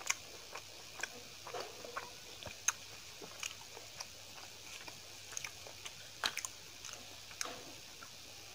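Close-miked chewing of chapati and curry: irregular wet mouth clicks and smacks, a few sharper than the rest, over a steady faint hiss.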